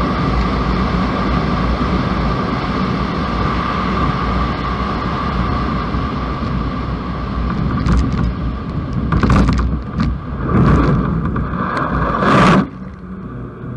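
A vehicle driving with steady road and engine noise, then a run of loud rushing splashes about eight to twelve seconds in as it drives through a big puddle of water. The noise drops off suddenly near the end.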